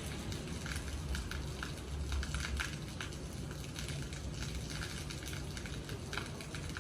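Steady rain falling, with many separate drops striking a hard surface in irregular clicks over an even hiss, and a low steady rumble underneath.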